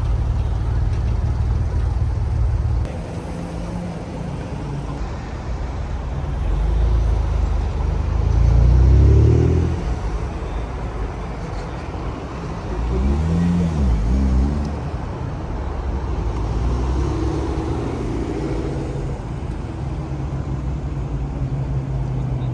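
Car engine rumbling, with the revs rising and falling several times; the loudest rev comes about nine seconds in.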